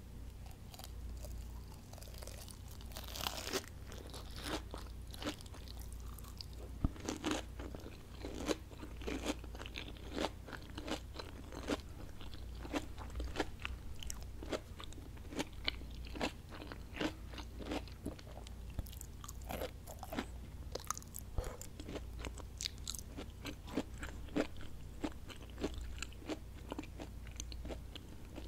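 Close-miked chewing of crunchy battered onion rings: rapid, irregular crackling crunches, several a second, over a steady low hum.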